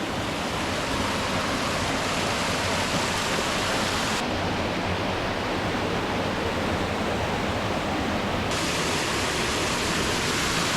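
Loud, steady rush of whitewater from mountain stream rapids. Its tone changes abruptly about four and eight and a half seconds in.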